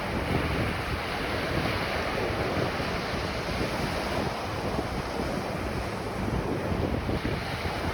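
Ocean surf washing onto a beach: a steady, unbroken rush of waves, with wind buffeting the microphone and adding a low rumble.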